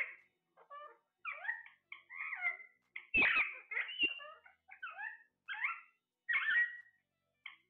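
Parrot chattering: a quick run of short chirps and squawks that bend up and down in pitch, the loudest about three seconds in.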